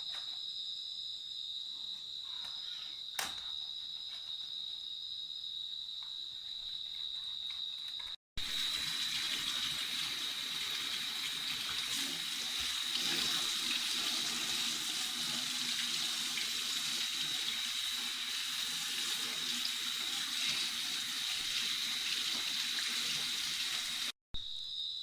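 Crickets trilling steadily, with a few light clicks. About a third of the way in, the sound cuts to a louder, steady water hiss with the crickets still trilling underneath. It cuts again near the end.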